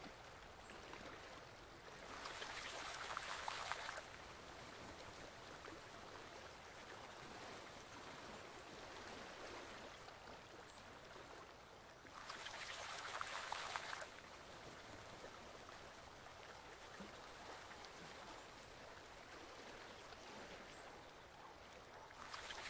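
Forest stream flowing gently with a faint steady water sound, swelling to a louder rush for about two seconds roughly every ten seconds.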